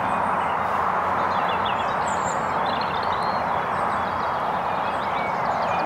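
Small birds chirping and twittering in short, repeated calls over a steady rushing hiss.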